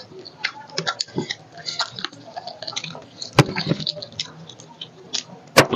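Close-miked chewing and mouth sounds of people eating whole roast chicken by hand, a run of small wet clicks and crackles. Two sharper, louder clicks come about three and a half seconds in and near the end.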